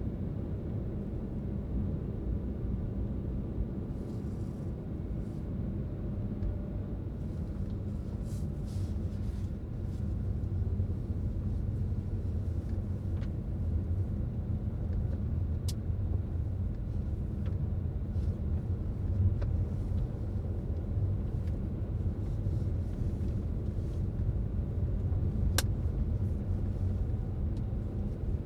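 A car driving at steady speed: its engine and tyres make a steady low rumble on the road. Two faint sharp ticks come past the middle and near the end.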